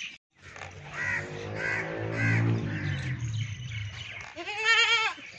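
Goats bleating: a long low bleat, then a loud, quavering bleat about four and a half seconds in. Crows caw repeatedly in the background.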